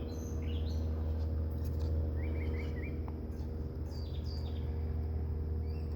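Wild birds chirping in short rising and falling notes, with a quick run of chirps about two seconds in, over a steady low drone.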